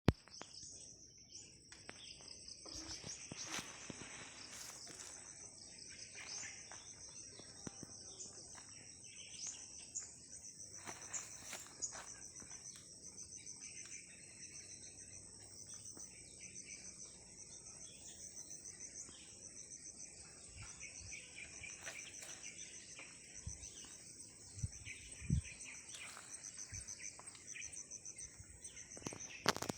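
Nature ambience: insects trilling in a steady, rapidly pulsing high chorus, with scattered bird chirps and a few soft low thumps in the last third.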